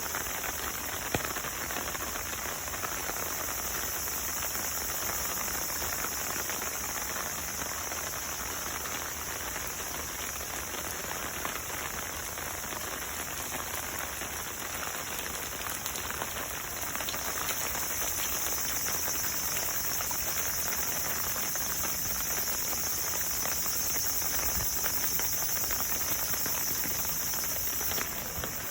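Water pattering steadily, a dense even hiss of many fine drops.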